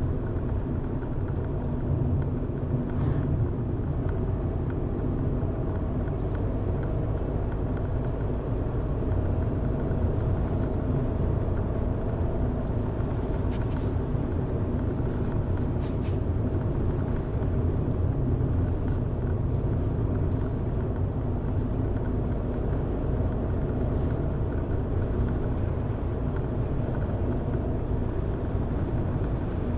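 Car driving at a steady pace: a constant low rumble of engine and tyres on the road, with a few faint clicks in the middle.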